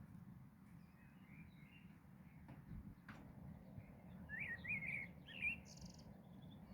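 Small birds chirping faintly, with a run of short rising chirps about four to five and a half seconds in, over a steady low rumble.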